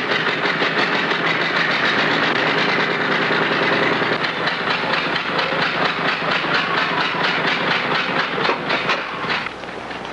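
Worn-out old car engine running after a push start, with a rapid rhythmic clatter and hiss.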